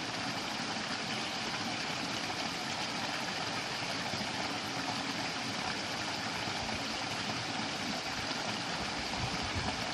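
A stream of running water rushing steadily.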